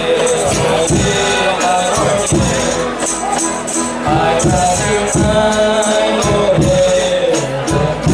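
Folia de Reis music: a tambourine jingling and a drum beating a steady rhythm under a melody.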